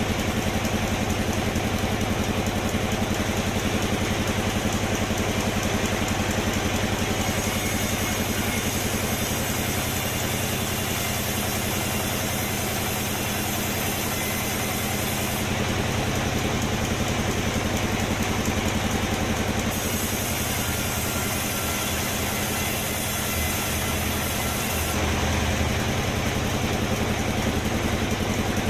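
Sawmill machinery running steadily with an engine-like hum. A higher hiss comes in twice, for several seconds each time.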